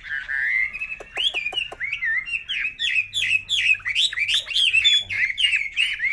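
Chinese hwamei calling in a loud, unbroken run of quick slurred whistled notes, with a few sharp clicks a little after one second in.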